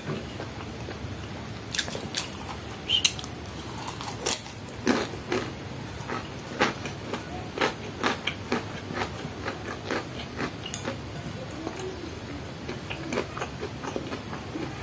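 A person chewing crunchy food close to the microphone with the mouth open: a quick, irregular run of crisp crunches and crackles that thins out near the end.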